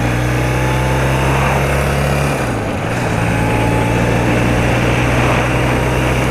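BMW R80RT's air-cooled flat-twin engine running steadily under way, with wind rushing past. Its note dips briefly about two and a half seconds in, then settles again.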